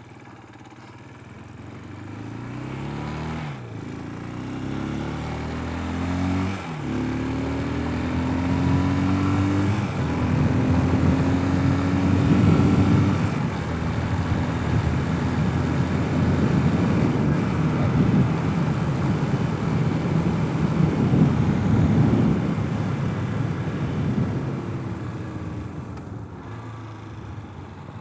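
Hawk 250 enduro motorcycle's engine accelerating up through the gears: the pitch rises and drops back at shifts about three and a half and about seven seconds in, climbs again, then settles into cruising under loud wind rush, and eases off near the end.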